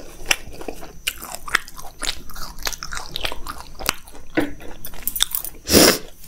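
Close-up eating sounds of crisp, syrupy jalebi being bitten and chewed: a run of small crunches and wet mouth clicks, with one louder crunch near the end.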